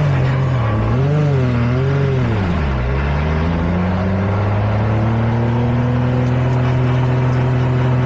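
Race truck's engine heard from inside the cab. Its pitch wavers up and down on and off the throttle for about three seconds, dips, then rises smoothly as the truck accelerates and settles to a steady note.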